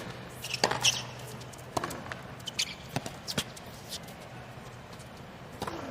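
Tennis ball being struck by rackets and bouncing on a hard court during a point: a string of sharp pops at uneven intervals over a faint steady hum.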